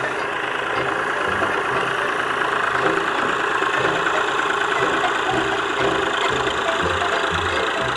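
Ford 4600 tractor engine running steadily, with an even low pulsing beat.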